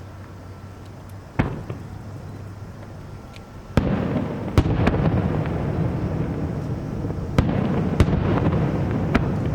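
Aerial fireworks shells bursting: a single sharp bang about a second and a half in, then a louder bang near four seconds that sets off a continuous rumble and crackle, with several more sharp bangs through the rest.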